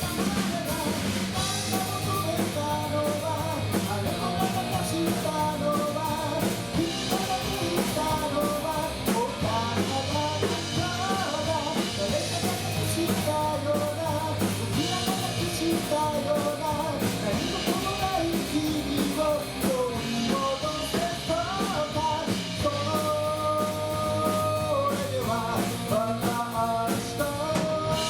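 Live rock band playing a song, with electric guitar, drums and a singer's vocal line.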